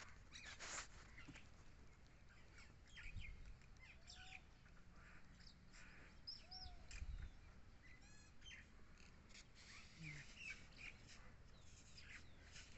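Faint birds chirping and calling: many short chirps and whistled glides scattered through, with a quick trill about eight seconds in.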